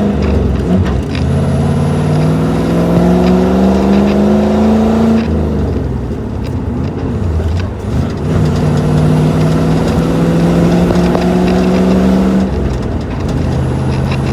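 1984 Land Rover's V8 engine pulling under load, its revs climbing steadily and then dropping sharply about five seconds in, as at a gear change. The revs climb again and drop a second time near the end.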